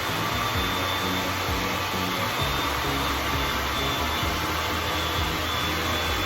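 Hand-held hair dryer blowing steadily, with a thin high whine over the rush of air, drying lace-wig glue.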